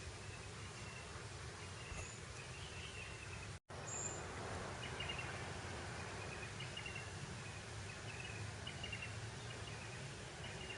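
Breeze over open grassland, a steady soft hiss, with short high chirps from small creatures repeating every second or so. The sound cuts out completely for an instant about a third of the way in.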